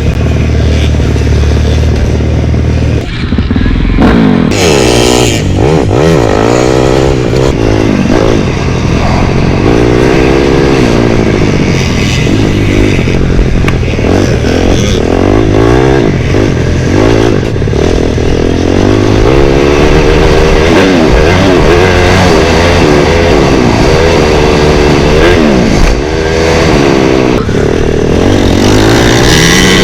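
Honda CRF450R four-stroke single-cylinder motocross bike running steadily at first, then from about three seconds in revving and accelerating again and again, its engine pitch climbing and dropping as it is ridden hard around the track.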